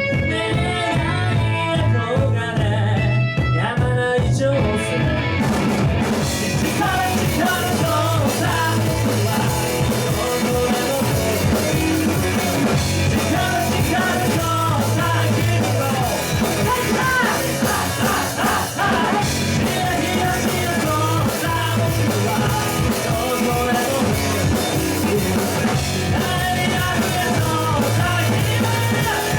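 Rock band playing with a singer, punk-rock style. The sound fills out about six seconds in, with a bright haze of cymbals over the band.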